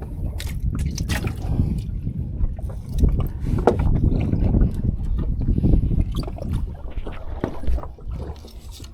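Water sloshing against a small fishing boat's hull, with a steady low rumble and scattered small clicks and knocks.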